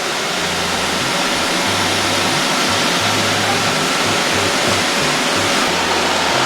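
Many Roomba robot vacuums running at once: a loud, steady rushing noise of their suction and brush motors.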